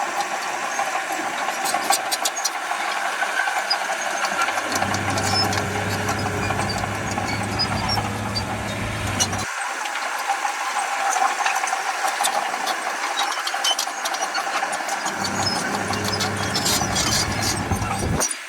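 Diesel engines of heavy earthmoving machinery running steadily, with scattered metallic clicks and rattles. A deeper low rumble joins twice, the first time cutting off suddenly about halfway.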